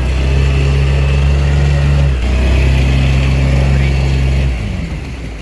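Motorboat engine running close by with a steady low hum, dipping briefly about two seconds in, then fading away near the end.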